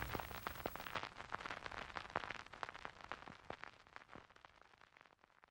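Faint crackling clicks, like record crackle, left over at the end of the lo-fi backing track, thinning out and fading to silence about four seconds in.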